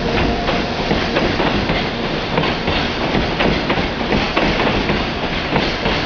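Freight train of container wagons rolling past close by, a steady loud rumble with rapid clacking of wheels over rail joints.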